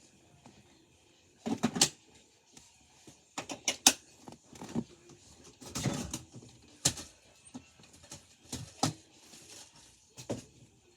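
Irregular knocks, clicks and light clatter of objects being handled, a dozen or so short sounds spread unevenly, with no motor running.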